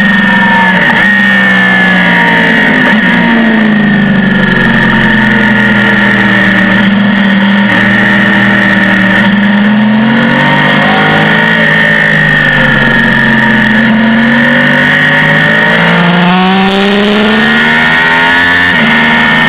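Sport motorcycle engine running hard at high revs, its pitch dropping and climbing again several times as the rider rolls off for corners and accelerates out, over a loud rush of wind.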